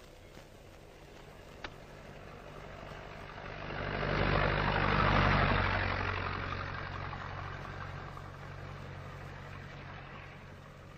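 A motor vehicle's engine running with a low hum; it grows louder about four seconds in, peaks, and then slowly dies back down.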